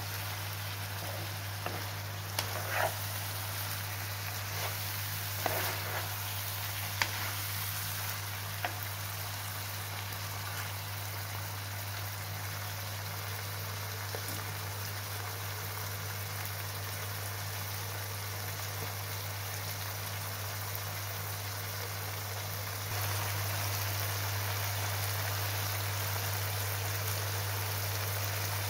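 Lamb liver, onions and tomatoes sizzling and simmering in a frying pan: a steady sizzle with a few sharp pops, over a steady low hum. The sizzle grows louder about three-quarters of the way through as the pan juices bubble harder.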